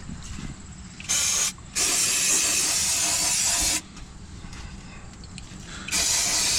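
Aerosol spray can hissing in three bursts: a short one, a longer one of about two seconds, and another short one near the end.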